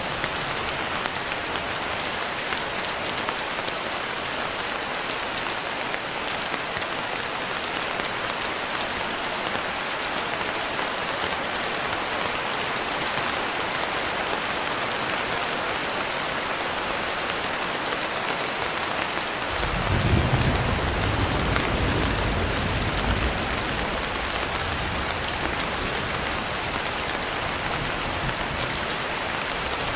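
Steady rain falling in an even hiss. About two-thirds of the way through, a low roll of thunder comes in and dies away over several seconds.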